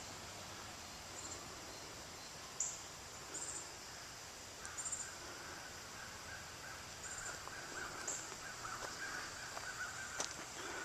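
Wild birds calling: short high chirps every second or two, joined about five seconds in by a steady string of lower, rapid calls.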